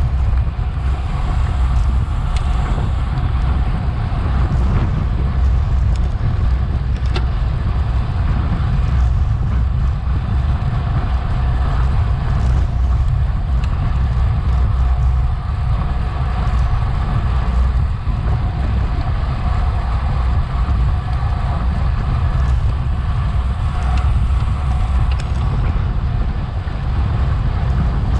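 Wind buffeting an action camera's microphone as a racing bicycle travels at speed: a steady heavy rumble with a fainter steady hum above it and a few faint clicks.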